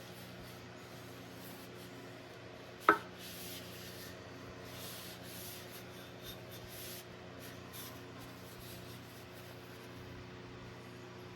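Intermittent rubbing and scraping strokes, with one sharp knock that rings briefly about three seconds in, over a steady low hum.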